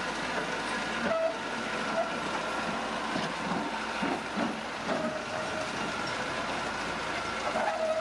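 Old crawler bulldozer at work: engine running steadily, with short metallic squeals and clanks from its tracks and running gear.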